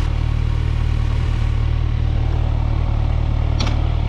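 Kawasaki Ninja 1000SX's inline-four engine idling steadily, with a short click about three and a half seconds in.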